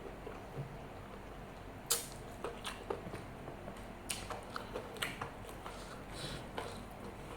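Close-miked chewing and mouth sounds from eating nasi Padang mixed with martabak Mesir, with scattered short wet clicks and smacks, the sharpest about two seconds in.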